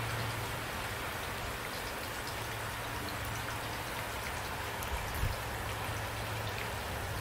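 Steady rain falling, with scattered drop ticks over an even hiss and a steady low rumble underneath. A brief low thump about five seconds in.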